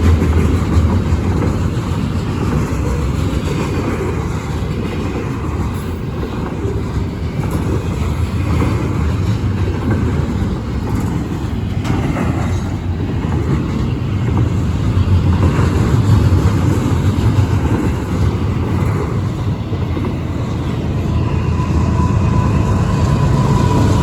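Union Pacific intermodal freight train rolling past, a loud steady rumble and rattle of cars and wheels on the rails. A thin steady high tone comes in near the end.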